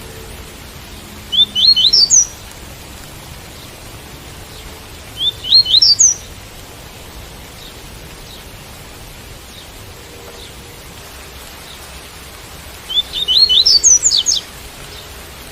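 Double-collared seedeater (coleiro) singing the 'tui-tui' song: three short phrases of quick rising whistled notes, the last one longest. Steady rain hiss runs underneath.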